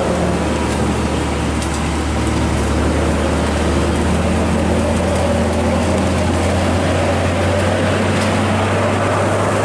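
A motor vehicle running steadily: a constant low engine drone with road or running noise over it.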